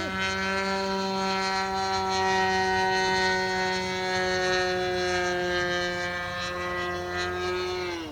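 Extra RC model aircraft's piston engine running at a steady high pitch, sagging slightly over several seconds, then throttled back near the end so the pitch and level drop sharply.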